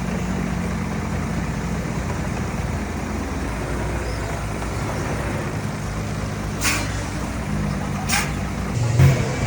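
Heavy diesel earthmoving machinery running steadily at a low hum, with two sharp metallic clanks in the second half. Near the end the engine note gets louder and steadier.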